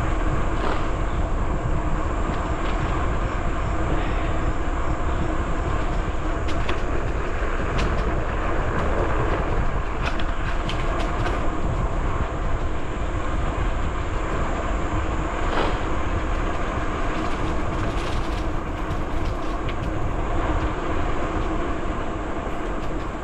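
Bicycle rolling along a trail: a steady rumble of tyres and wind on the microphone, with scattered clicks and rattles from bumps in the surface.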